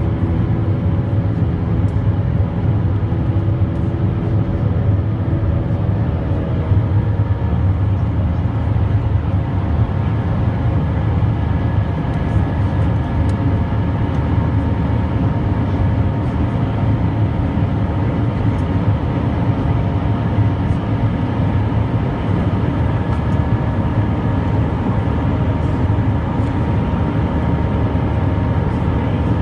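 Airbus A320 jet engines and airflow heard inside the passenger cabin: a loud, steady rumble with a few steady whining tones above it. A group of tones near the start shifts and fades about seven seconds in.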